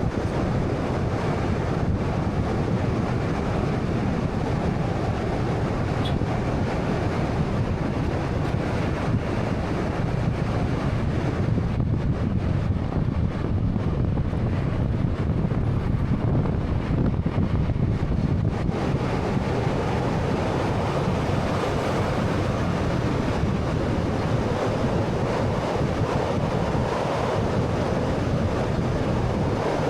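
Steady road noise from a 2013 Honda Fit being driven: an even, deep rumble of tyres, wind and engine with no clear change.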